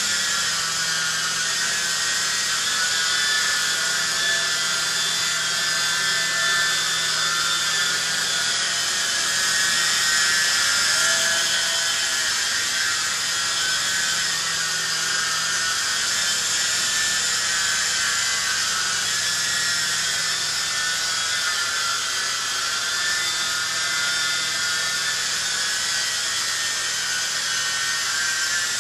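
Venom Ozone coaxial RC helicopter's small electric motors and counter-rotating rotor blades running in flight: a steady high-pitched whine that wavers slightly in pitch as the throttle shifts.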